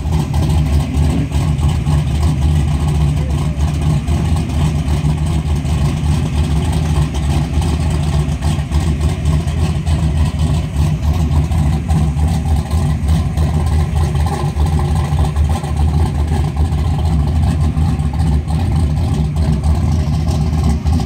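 Ford Thunderbolt drag car's V8 engine running at a steady idle, loud and deep.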